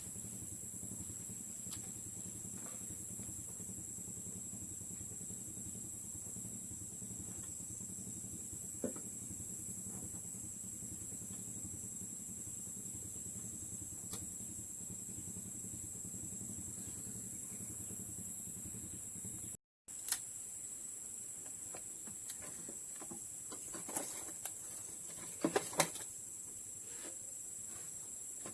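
Steady low hum with a steady high-pitched whine over it. A few sharp clicks or taps come about two-thirds of the way through and again near the end.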